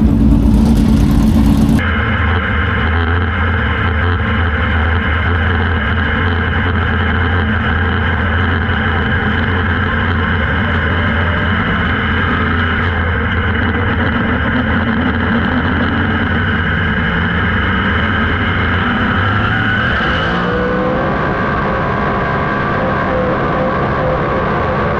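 Super late model dirt race car's engine running hard at steady high revs, its pitch shifting about twenty seconds in.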